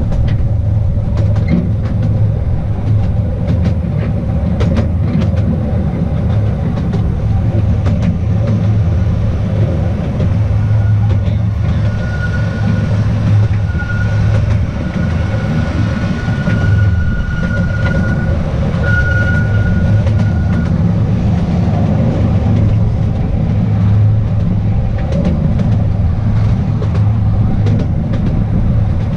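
Narrow-gauge Artouste tourist train running along the track: a steady low rumble with scattered clicks of the wheels over the rails. A thin high whine comes and goes for about ten seconds in the middle.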